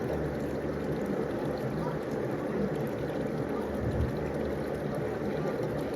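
Steady splashing and running of swimming-pool water, with a brief low bump about two-thirds of the way through.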